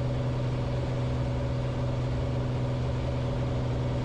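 Light piston airplane's engine and propeller droning steadily in the cockpit, one low hum with overtones and an even rush of noise.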